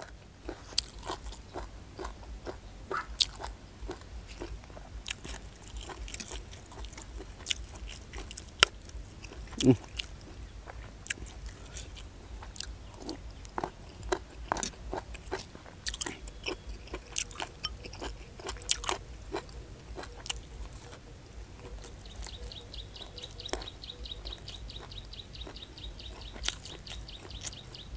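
A person chewing and biting into young earthstar mushrooms (hed phor) in curry, with many short, crisp crunches and crackles scattered through the chewing as the mushroom shells burst.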